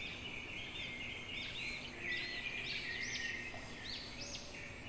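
Faint chirping of small birds: quick, repeated high chirps that grow busier about two seconds in.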